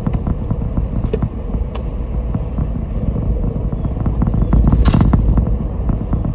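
A car driving along a road: a steady low rumble of tyres and engine, with a sharp knock about five seconds in.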